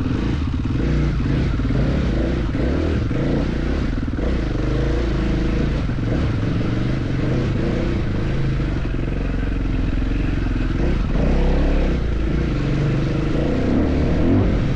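Motorcycle engine running while being ridden off-road, its pitch rising and falling with the throttle. It gets louder about eleven seconds in.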